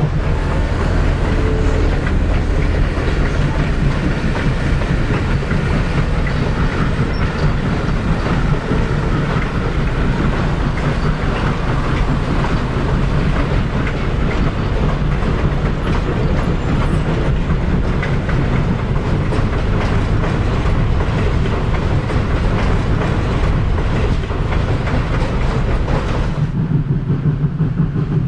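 Steam-hauled passenger train of heavyweight coaches rolling past, a steady loud rumble with wheels clattering over the rail joints. Near the end the higher clatter drops away sharply, leaving the low rumble.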